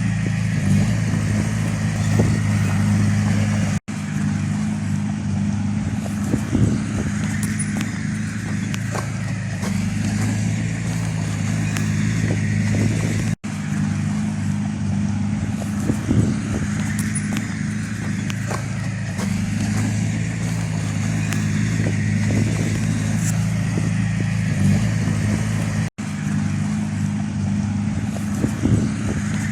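Heavy-equipment diesel engine running steadily at working speed, with scattered knocks and clanks. The sound breaks off for an instant three times.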